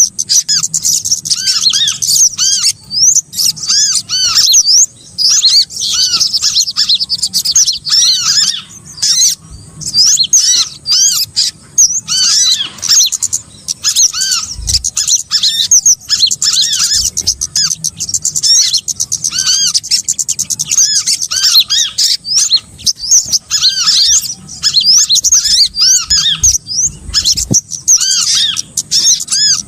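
Small songbirds chirping and chattering in a dense, rapid, high-pitched stream with short pauses: a bird-trapping lure call recording for small birds.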